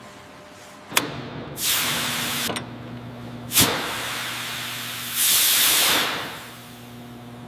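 Two bursts of pressurised hissing spray or air, the second one louder, with sharp clicks around them like a valve or trigger. A steady low mechanical hum runs beneath.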